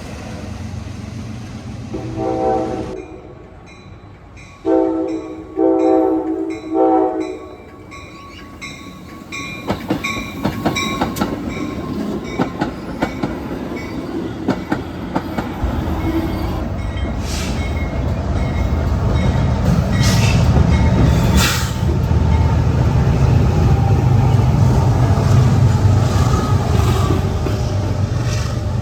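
A train horn sounds four blasts: a short one, two longer ones, then a shorter one. The wheels then click over rail joints, and a diesel locomotive's rumble builds and stays loud as the train passes, with a few sharp metallic squeals.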